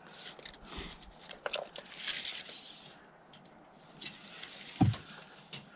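Oak boards being handled and shifted on a stack: scattered wooden knocks and clicks with scraping as pieces slide against each other, and one heavier thump a little before the end.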